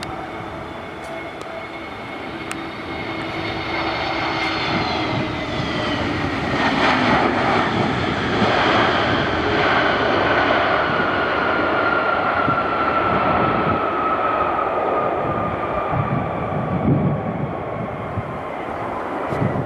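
Airbus A321 jetliner passing close by on its arrival, its engine whine falling in pitch as it goes past. The rumble then stays loud, with one tone sliding slowly lower as the aircraft moves away.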